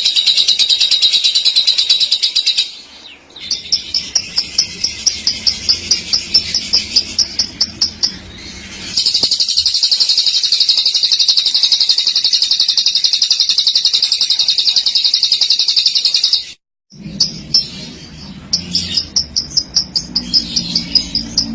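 Lovebird singing its long chattering 'ngekek' trill: long unbroken runs of rapid shrill chatter, twice broken by stretches of quick separate notes, with a brief gap about two-thirds through.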